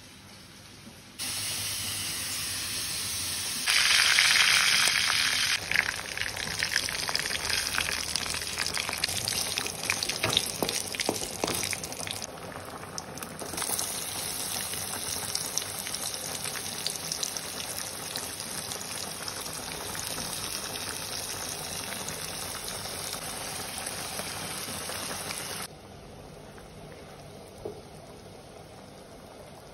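Hot oil sizzling and crackling in a kadai as spices, curry leaves and chopped onion fry: a steady hiss with many sharp pops, loudest in a hissing burst about four seconds in, broken by several abrupt cuts. Near the end it drops to a quieter, steady bubbling of dal simmering in the pan.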